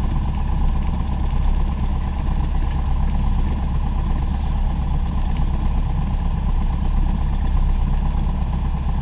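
Aircraft engine and cabin noise heard from inside during flight: a steady, unchanging low drone.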